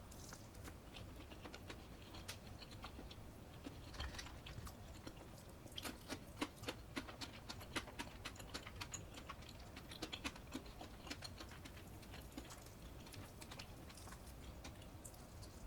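Close-miked eating sounds: a person chewing food, with a run of small sharp crunches and clicks that is densest about six to eleven seconds in.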